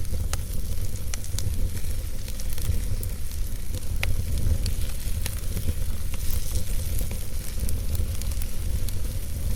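Wood fire burning in a fireplace: a steady low rumble and hiss with scattered crackles and pops, one sharper pop about four seconds in.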